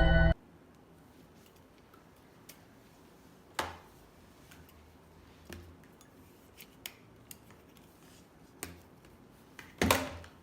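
Vacuum cleaner parts being handled: a few scattered clicks and knocks, the loudest near the end, after a music track cuts off at the very start.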